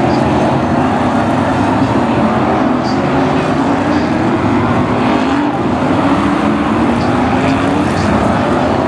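Several BriSCA F1 stock cars' V8 engines running together, their pitch rising and falling as the cars circle the track.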